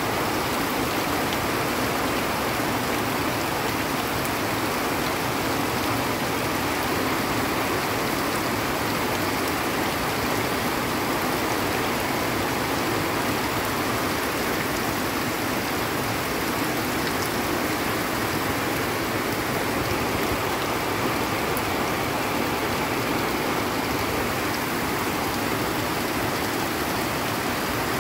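Heavy rain pouring steadily onto trees and dense foliage, an even, unbroken hiss.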